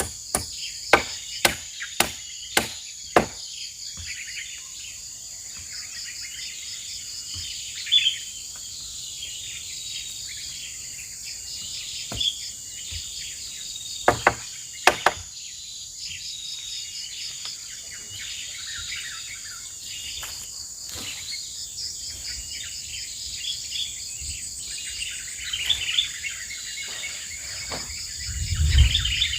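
Sharp tool blows, about two a second for the first three seconds, then single knocks here and there, as fence-building work goes on. A steady high insect drone and bird chirps run underneath, with a dull thump near the end.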